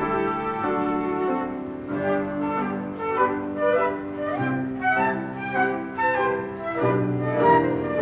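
Live instrumental ensemble music: several pitched instruments play a melody over held accompanying notes that change every half second or so.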